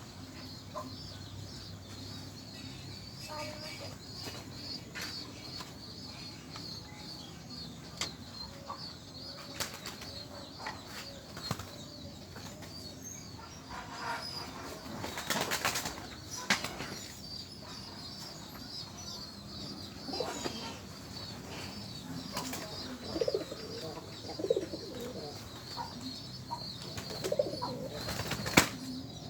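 Domestic pigeons flapping their wings in scattered bursts, the longest about halfway through, with a few low calls near the end. A steady high-pitched trill runs underneath.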